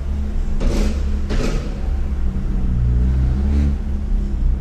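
Fiat Uno engine running and pulling the car along, its pitch shifting up and down as the throttle changes, with two short hissing bursts about a second in.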